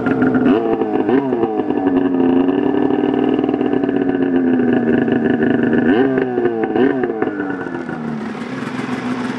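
2003 Polaris RMK 700 two-stroke twin snowmobile engine running on a newly fitted SLP exhaust with no muffler. It is blipped twice in quick succession, held at a raised speed for a few seconds, blipped twice more, then settles back toward idle near the end.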